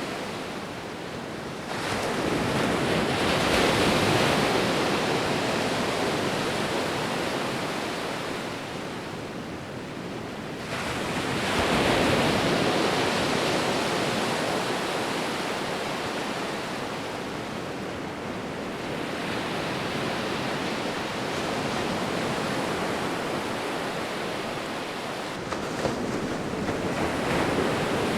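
Ocean waves breaking and washing up the shore, the surf swelling loud three times, about 2, 12 and 27 seconds in, and easing away in between.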